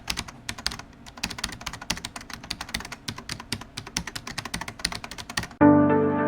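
Rapid, irregular clicking of keys being typed on a keyboard, several strokes a second. Near the end the typing stops and music with sustained chords begins.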